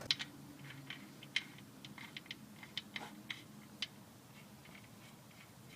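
Light metal clicks and taps of a socket wrench being handled and fitted to a car's oil drain plug: about a dozen irregular clicks over the first four seconds, then fainter.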